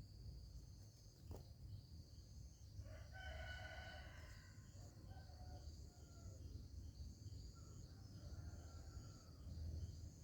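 A rooster crowing once, faintly, about three seconds in, with fainter calls after it. Insects trill steadily throughout.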